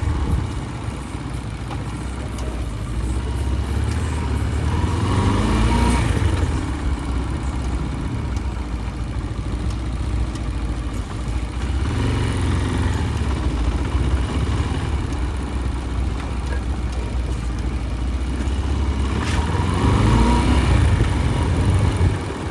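Motorcycle engine running while riding in street traffic, its pitch rising as it speeds up three times: about five, twelve and twenty seconds in.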